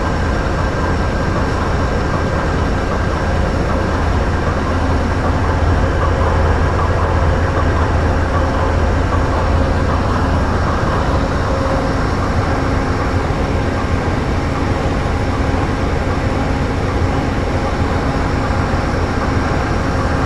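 Amtrak diesel locomotive idling at a standstill: a steady low rumble with steady humming tones above it.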